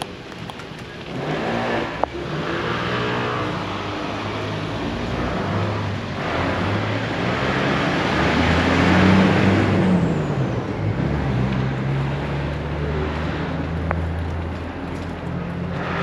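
Motor vehicles driving past. One passes close about nine seconds in, its engine pitch dropping as it goes by.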